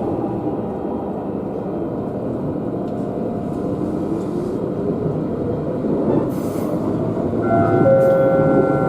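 Toyama Chihō Railway electric train running on the line with a steady rumble. About seven and a half seconds in, a steady high whine of several tones joins it.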